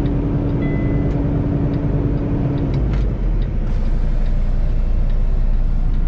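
Heavy diesel truck engine idling steadily, with a steady hum over it that stops about three seconds in.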